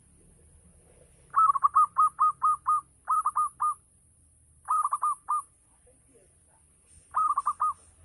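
Zebra dove (perkutut) cooing: four bursts of quick, short notes, the first of about seven notes and the rest of four or five, with pauses between.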